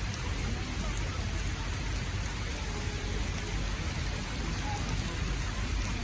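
Steady rain falling and pattering on surfaces, with a few faint drop ticks.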